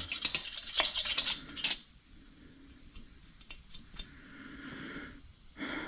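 Light metallic clinking and rubbing from handling parts, busiest in the first two seconds, then a few faint ticks.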